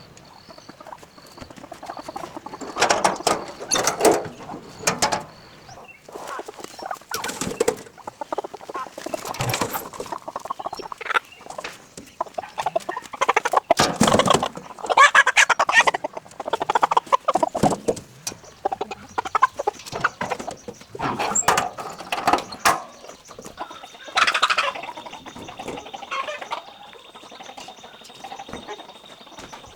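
Chickens and roosters clucking and squawking in irregular bursts, with scattered knocks and rustling.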